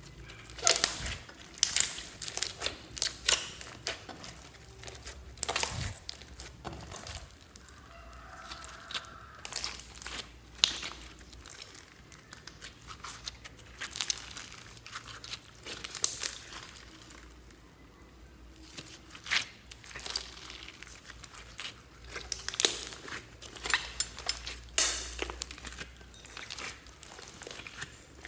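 Slime being mixed and squeezed by hand, making irregular sticky crackling clicks and pops in clusters.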